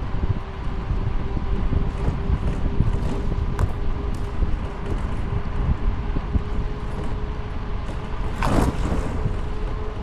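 Wind buffeting the microphone over steady road noise during a ride, with a faint constant hum underneath. A brief swelling sweep comes near the end.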